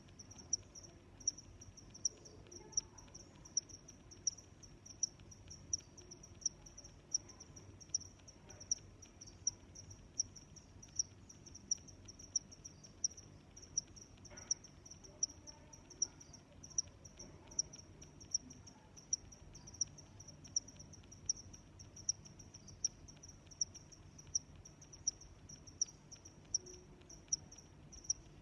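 Cricket chirping steadily: short, high-pitched chirps repeating evenly, a little more than one a second, over faint low background noise.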